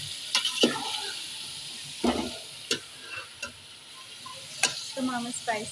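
Chicken, chopped tomatoes and masala sizzling in oil in a metal pot, frying as the base for chicken biryani, while a metal spoon stirs it, scraping and knocking against the pot several times.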